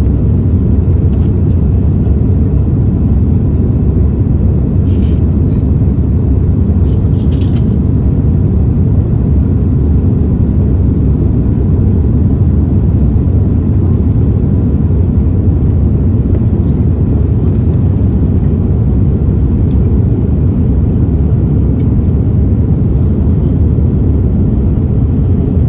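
Steady cabin noise of an Airbus A330-300 with Rolls-Royce Trent 700 engines: a loud, even, low rumble of engines and airflow heard from inside the passenger cabin, with a couple of faint clicks.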